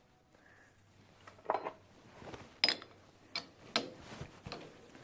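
Light metallic clinks and knocks of metal tools or parts being handled. There are about five sharp strikes in the second half, over a faint steady hum.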